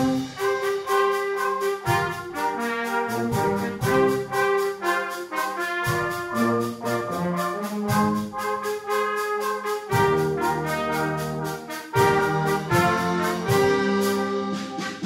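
A brass ensemble playing a piece, with trumpets and trombones carrying changing notes to a steady beat.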